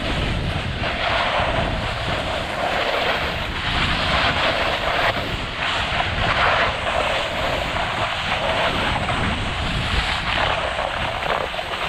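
Edges scraping and hissing over packed snow during a run down a steep ski slope, swelling and fading every second or two, with wind buffeting the microphone.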